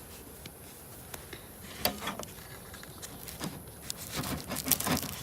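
Crinkling and clicking of aluminium foil wrapping being pulled open by hand around a fire-baked potato, sparse at first and busier toward the end.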